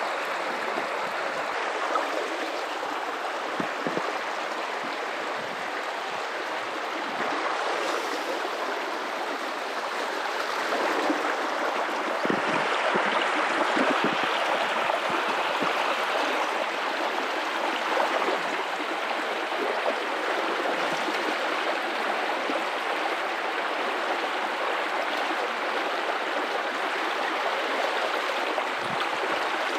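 River water running over rocks: a steady rushing with small gurgles and splashes, swelling a little near the middle.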